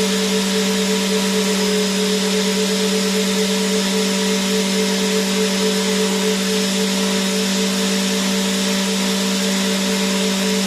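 Vacuum cleaner motor running continuously: a steady hum with a hiss of rushing air, unchanging throughout.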